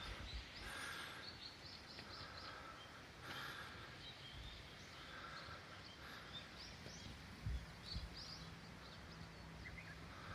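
Faint birdsong: short high chirps and calls repeating every second or two. Two low thumps come about three-quarters of the way through.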